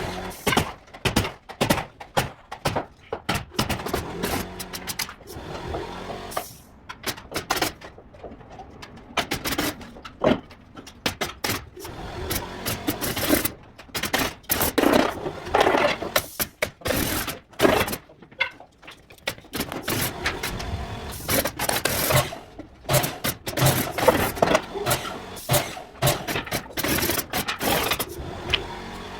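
Interior carpentry work: a rapid, irregular run of knocks and clicks with stretches of scraping.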